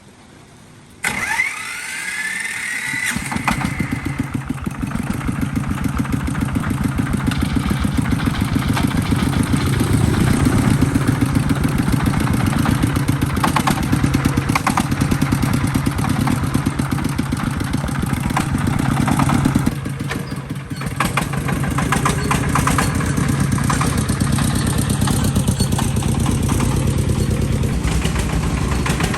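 A restored tractor's engine is cranked with a rising whine for about two seconds, then catches and runs steadily with a fast, even pulse. It dips briefly about twenty seconds in. This is the test start after the repair.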